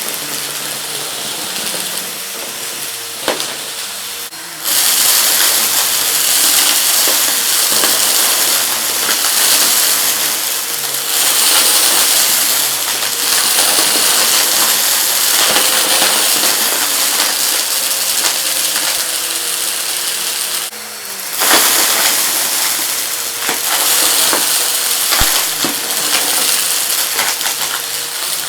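A vacuum cleaner running steadily while it sucks up hard debris, with many small clicks and rattles as pieces hit the nozzle and tube. The suction noise briefly drops and surges back twice.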